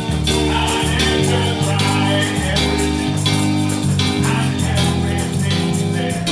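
Live gospel church music: a band playing sustained bass and keyboard notes over a steady percussion beat.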